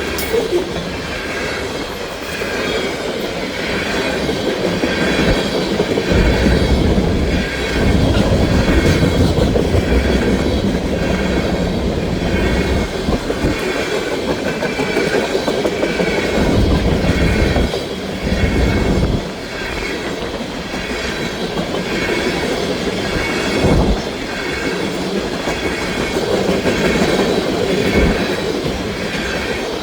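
Freight train cars rolling past a grade crossing, wheels clacking over the rail joints with a steady heavy rumble that swells and eases as the cars go by. A high-pitched sound pulses evenly over the top throughout.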